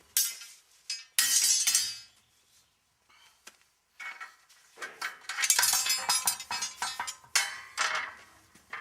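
Steel lock ring and rim parts of a loader tire wheel clinking and scraping against each other as the lock ring is worked into place. There are a few sharp metal clinks in the first two seconds, a short pause, then a busy run of ringing clinks and scrapes through the second half.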